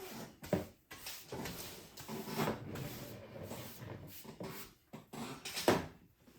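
Loose crumbs of model-tree foliage being swept up off a tabletop: an uneven rustling, scraping sound, with a sharp knock about half a second in and another near the end.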